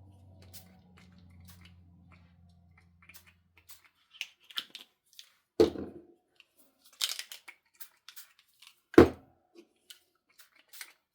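Craft supplies being handled on a tabletop: scattered knocks and clicks with short rustles, the loudest knock about nine seconds in, over a faint low hum in the first few seconds.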